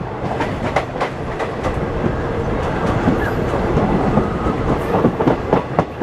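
Passenger train running along the track, a steady rumble with the clickety-clack of coach wheels over rail joints, sharper clacks about a second in and again near the end.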